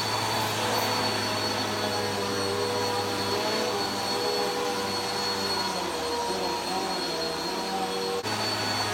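Vacuum cleaner running steadily as it cleans a carpet, a constant motor whine and hum. The sound dips briefly just after eight seconds in.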